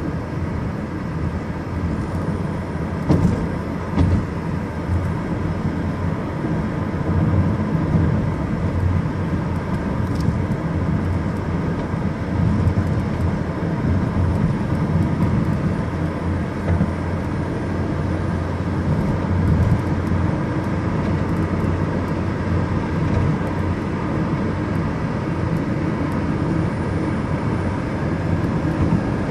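A car driving at steady speed: continuous engine and road noise, with two short knocks about three and four seconds in.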